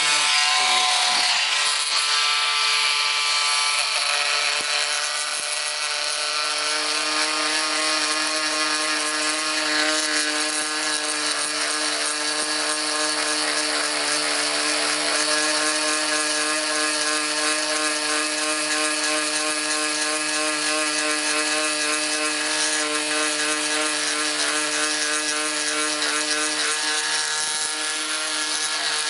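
Cordless multi-tool fitted with a carbide jigsaw blade, set to speed three, running steadily while sawing, an even motor hum under a dense rasping hiss.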